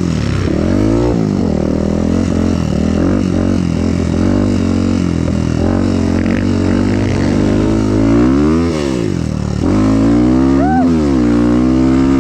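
Dirt bike engine revving up and falling back again and again as it is ridden around a motocross track, its pitch peaking about a second in and again near the end. A steady low engine hum runs underneath.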